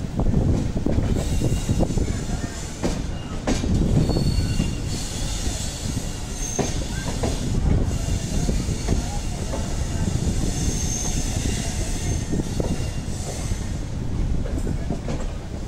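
Passenger train coach running over the tracks on the approach into a station, heard from the open doorway: a steady rumble of wheels on rail, sharp knocks as the wheels cross rail joints and points, and a few brief high-pitched wheel squeals.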